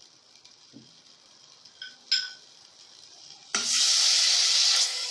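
Two light clinks, like a utensil against a pot, about two seconds in. Then, about three and a half seconds in, a sudden loud sizzle as something goes into butter heating in a hot pot, easing slightly near the end.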